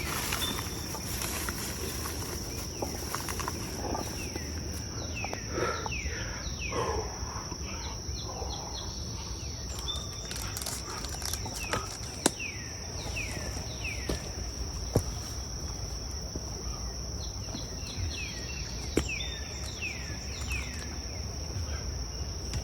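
Forest insects keeping up a steady high-pitched drone, with a bird calling in runs of falling whistled notes, three runs in all. A few sharp clicks stand out here and there.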